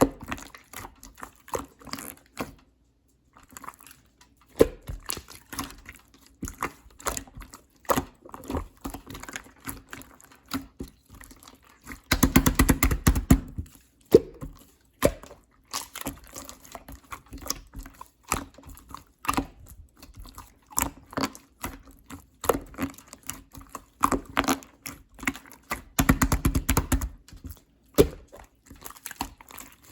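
Clear slime being squished and poked by hand, giving a steady string of small sticky clicks and pops, with two louder stretches of dense squelching, about twelve and twenty-six seconds in.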